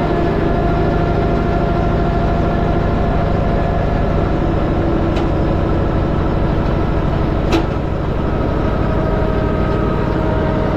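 Allis-Chalmers tractor engine running steadily at a low, even speed, with one sharp click about three-quarters of the way through.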